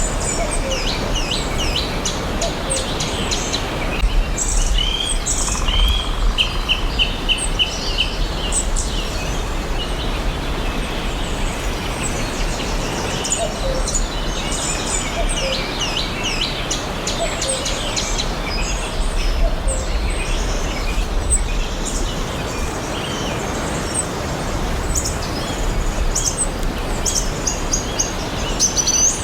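Several forest birds chirping and singing, with short chirps and trills throughout over a steady background hiss and low rumble.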